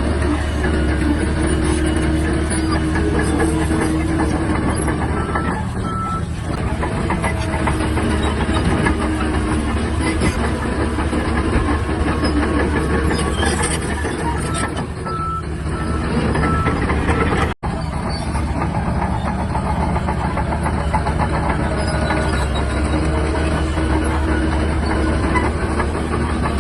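Shantui DH17-C3 bulldozer working: its diesel engine runs steadily under load with the clatter of its steel tracks. Short high beeps come in two brief runs, about five seconds in and again around the fifteen-second mark.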